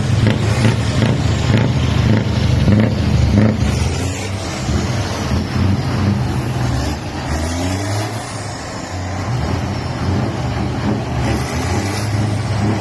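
Heavy truck's diesel engine running loud, dropping somewhat in loudness after about four seconds, with some shifts in pitch.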